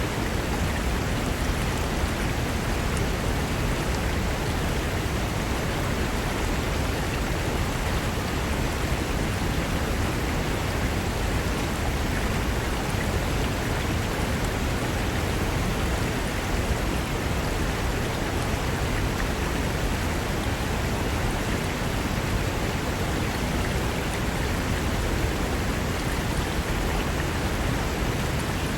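Fast mountain river rushing over rocks, a steady dense roar of water with no change.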